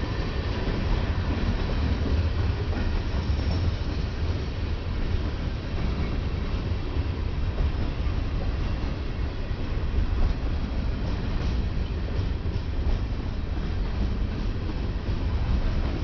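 Freight train rolling past: a steady low rumble of the cars with wheels clattering over the rail joints, the clatter a little more distinct in the second half.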